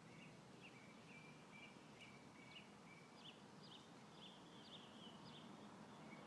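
Faint songbird chirping: a steady series of short, high notes, about two a second, some flicking up in pitch, over a faint hiss of breeze.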